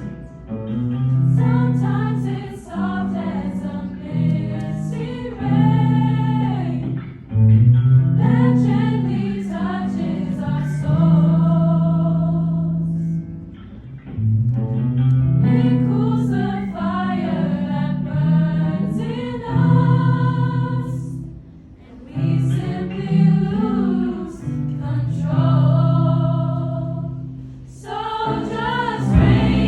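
A cappella vocal ensemble singing unaccompanied, with low voices holding sustained notes under the moving upper parts; the phrases break for brief pauses a few times.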